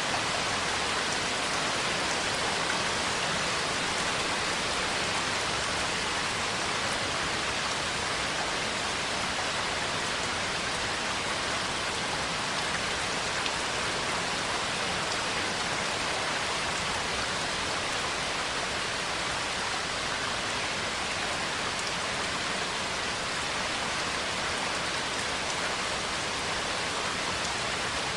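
Steady rainfall: an even, unbroken hiss of rain with no single drops or thunder standing out.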